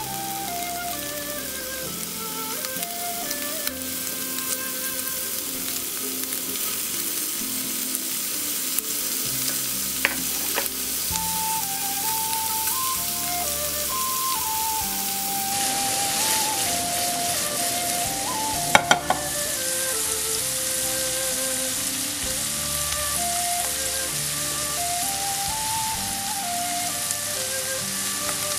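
Shrimp sizzling steadily as they fry in olive oil in a nonstick pan, with a few light clicks, under soft background music with a simple melody.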